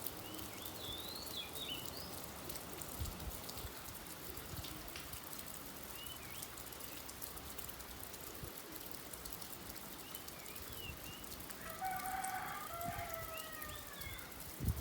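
Steady rain pattering, with small birds giving short chirps at intervals and a rooster crowing once about twelve seconds in.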